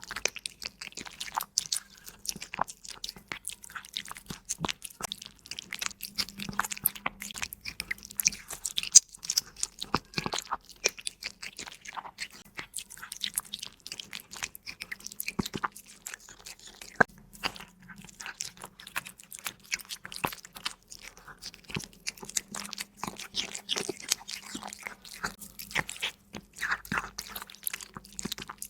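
A cat chewing raw meaty bones close to the microphone: a fast, irregular run of sharp crunches and bites.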